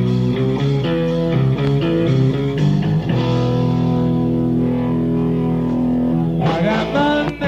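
Live rock band's electric guitar and bass playing a choppy repeated riff, then holding one long chord from about three seconds in, with bending notes near the end.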